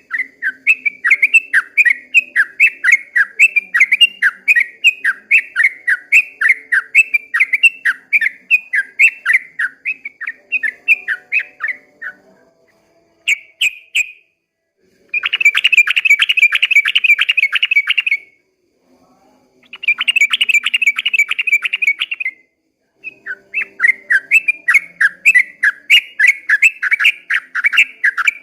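Yellow-vented bulbul singing a long run of quick repeated notes, about three a second, broken by short pauses. Partway through it switches to two bursts of a fast, rattling trill.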